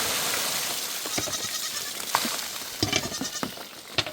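Goats and sheep bleating in short calls over a steady rush of rain that fades over the first couple of seconds.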